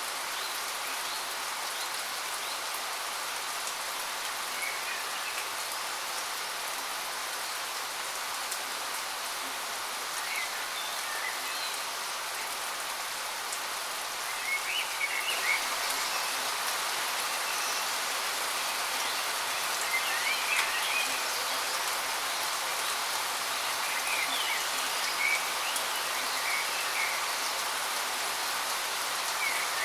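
Steady rushing hiss of a waterfall, a little louder from about halfway through, with small birds chirping briefly every few seconds over it.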